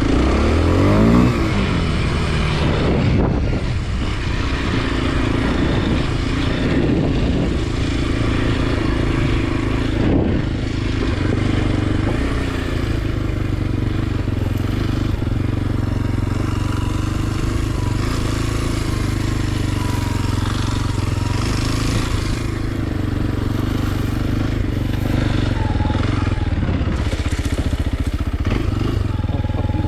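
2023 Kawasaki KLX 230 SM's single-cylinder engine under way, revving up in the first second or two, then running at an even, steady pitch.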